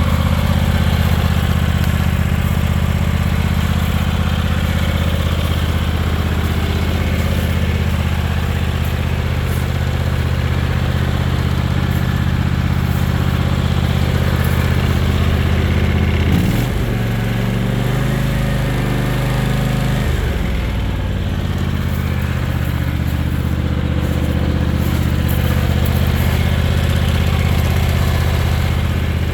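John Deere X354 lawn tractor engine running steadily. About halfway through, the revs rise and hold for a few seconds, then drop back to the earlier speed.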